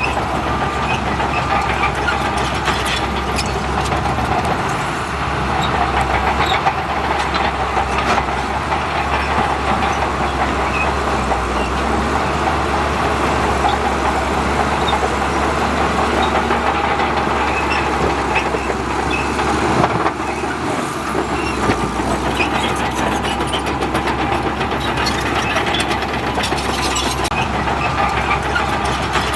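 Heavy diesel earthmoving machinery running steadily under load, with scattered clanks and rattles.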